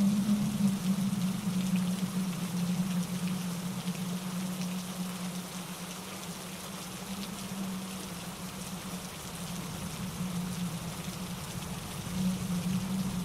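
Steady rain pattering on leaves and pine needles, with wind in the trees and a mountain stream rushing over granite rocks beneath. The wash eases through the middle and swells again near the end.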